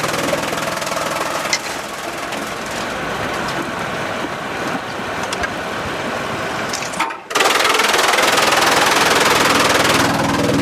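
Sawmill machinery running, with scattered clicks and knocks. It drops out sharply about seven seconds in, then comes back as a louder hissing noise.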